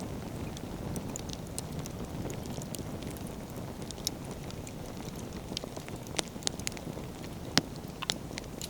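Wood bonfire burning: scattered sharp crackles and pops of burning firewood over a steady low rumble. The loudest pop comes about three-quarters of the way through.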